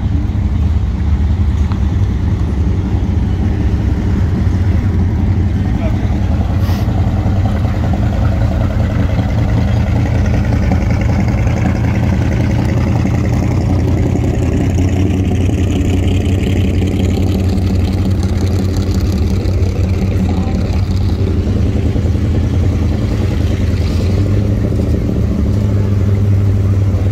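Car engines running as vehicles drive off one after another: a steady low rumble, with rising and falling engine notes through the middle. People's voices mix in.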